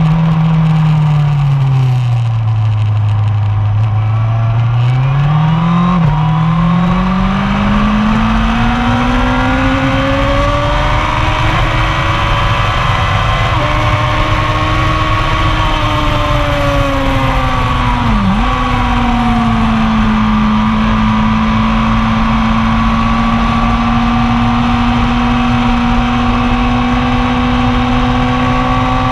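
1999 Yamaha R1's inline-four engine running hard through a lap. The revs fall away at first, then climb steadily after a quick change at about six seconds. They sag and dip sharply with a gear change a little past halfway, then hold almost steady to the end.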